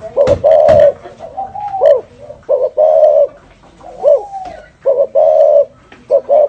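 Spotted dove cooing in the 'thổ rền' style: a run of deep coos, some short and arching in pitch, some longer and held steady. Two sharp knocks come in the first second.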